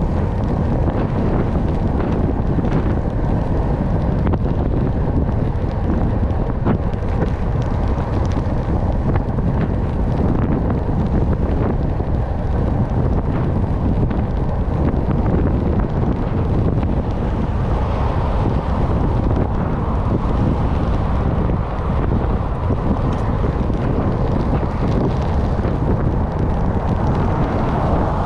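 Steady wind rush buffeting the microphone while riding a bicycle at speed, a loud low rumble throughout.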